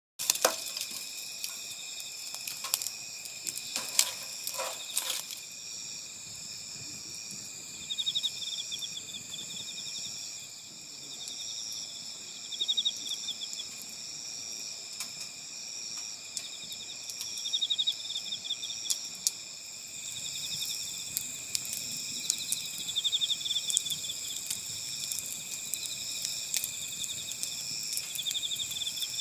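Chorus of autumn crickets and other singing insects: several steady high trills at different pitches, with a pulsing trill that comes back every few seconds. A few sharp clicks sound in the first few seconds.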